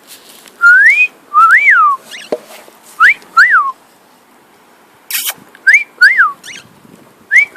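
Cockatiel whistling a short two-note phrase, a rising note and then an up-and-down note, four times with pauses between.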